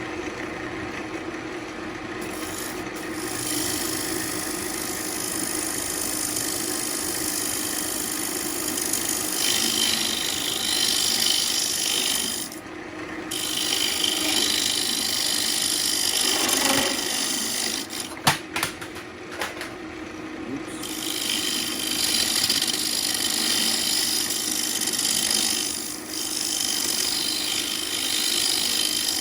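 Turning tool cutting into ambrosia maple spinning on a Central Machinery wood lathe: a steady rasping hiss of wood being shaved over the lathe motor's hum. The cutting stops briefly twice, and a few sharp clicks come during the second stop.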